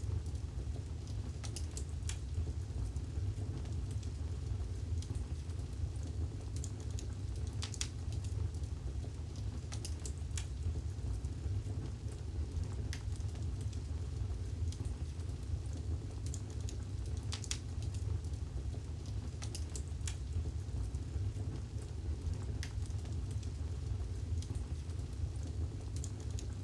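Wood fire burning in a fireplace: a steady low rumble of the flames with scattered sharp crackles and pops, a few at a time, every second or two.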